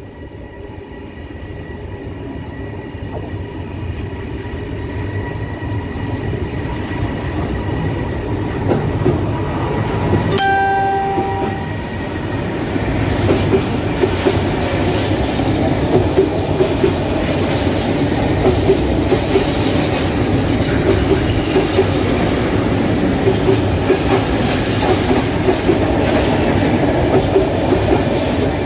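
Container freight train hauled by an E494 electric locomotive, growing louder as it approaches, with a short horn blast about ten seconds in. The container wagons then roll past with a steady rumble and a rhythmic clickety-clack of wheels over the rail joints.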